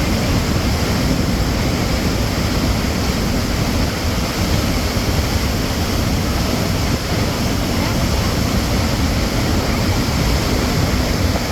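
Water of a natural spring stream rushing and splashing, a steady, even rush with no breaks.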